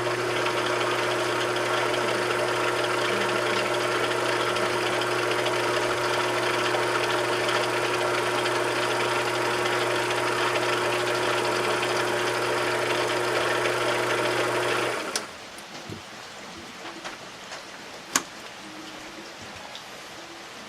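A small machine tool's electric motor runs steadily with an even hum, then is switched off about three-quarters of the way through. A few light clicks and one sharp tick follow.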